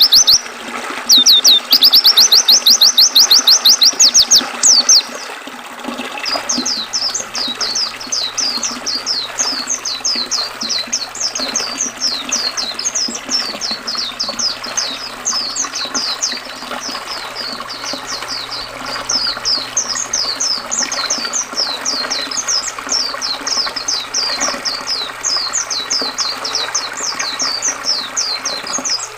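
White-eye (pleci) singing over flowing river water: a loud, very fast trill of rapid high falling notes for the first few seconds, then from about six seconds in a long, continuous quick twittering song over the steady rush of water.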